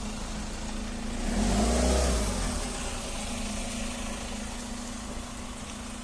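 A motor vehicle's engine running, swelling louder for about a second, starting about a second in, with a shift in pitch, then easing back to a steady hum.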